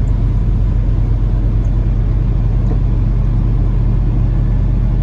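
Peterbilt 579 semi truck's diesel engine running at a low, steady drone, heard from inside the cab.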